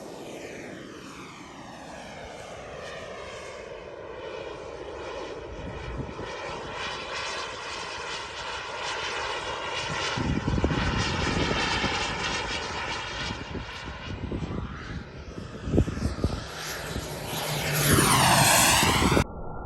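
Turbine engine of a large radio-controlled model jet flying by, a steady jet rush whose pitch bands sweep down and back up as it passes. It grows louder about halfway through and swells most on a close pass near the end.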